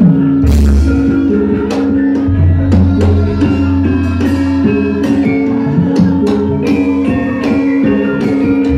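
Javanese gamelan ensemble playing: ringing pitched metallophone notes over sharp, frequent drum strokes, with deep low notes swelling about half a second in and again from about two and a half seconds in.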